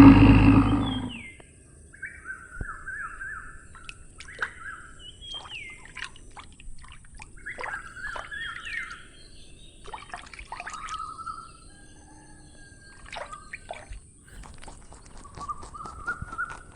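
Birds calling and chirping: short falling whistled notes and quick trills, repeated, with scattered sharp clicks. A loud, rough sound dies away about a second in.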